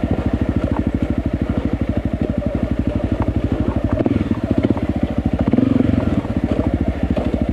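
Enduro motorcycle engine running at low revs with an even, rapid chug, rising briefly with a blip of throttle about five and a half seconds in.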